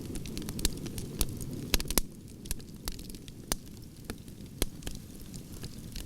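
Burning logs in a wood fire crackling, with frequent irregular sharp pops over a low rumble of flames. The rumble drops back about two seconds in while the popping goes on.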